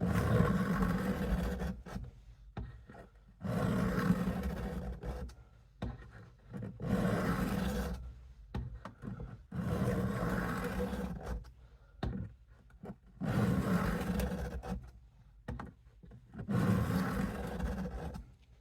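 Case USMC knife blade drawn across the coarse side of an oiled Harbor Freight diamond sharpening stone: six slow scraping strokes, each about one and a half to two seconds, with short pauses between. The strokes are grinding in a 25-degree edge bevel.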